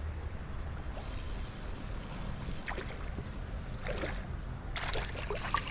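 Light splashing and sloshing of creek water from a hooked smallmouth bass being played and reeled in, with a few soft splashes in the second half. A steady high insect drone runs underneath.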